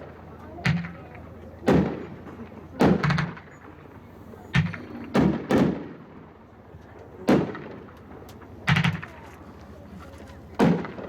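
A 9-shot 500-gram consumer fireworks cake firing, with big shell breaks overhead. About ten sharp booms come roughly a second apart, some in close pairs, each with a short echoing tail.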